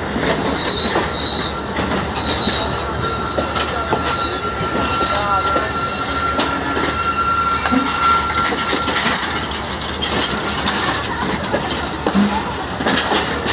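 Passenger train rolling by at low speed, its wheels clacking over rail joints, with a thin steady wheel squeal from about two seconds in until about nine seconds and shorter higher squeals early on.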